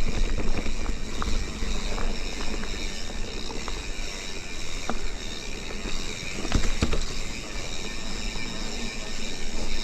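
Mountain bike riding on a dirt trail: steady tyre and trail noise with wind rumbling on the microphone, and scattered knocks and rattles from the bike, the strongest about six and a half seconds in.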